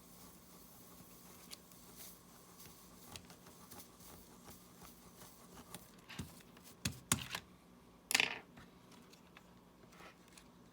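Small clicks and taps of tools on a smartwatch's small parts during a side-button repair: faint scattered ticks, then a few sharp clicks and one louder short scrape a little after the middle.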